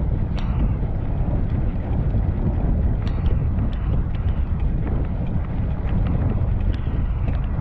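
Wind buffeting the microphone of a moving bicycle, a steady low rumble, with scattered light clicks and rattles throughout.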